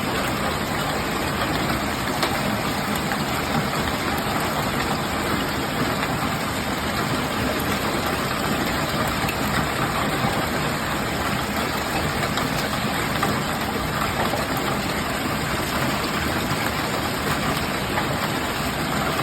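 Hailstorm: hail pelting down in a dense, steady patter, with occasional sharper single hits.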